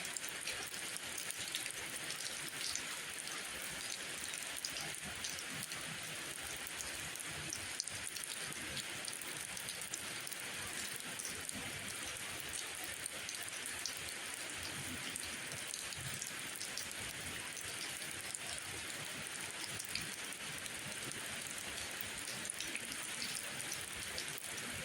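Steady rainfall, with scattered individual drops ticking.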